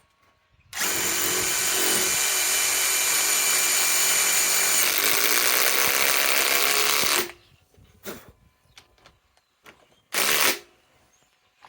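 Ryobi PSBIW25 cordless compact impact wrench driving a 5/16 by 3 inch galvanized lag screw into wood that is not pre-drilled. It runs steadily under load for about six seconds, stops, and then gives one short burst of about half a second near the end.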